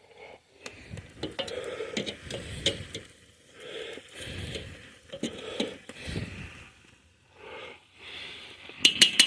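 Metal tongs clicking and scraping as chicken wings are turned and dipped in a pot of barbecue sauce. The sound comes in short bursts with sharp clicks, the loudest a quick run of clicks near the end.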